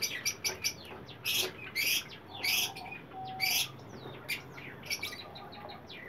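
Small cage birds chirping busily, a rapid run of short high chirps, with a few louder harsh calls in the first half.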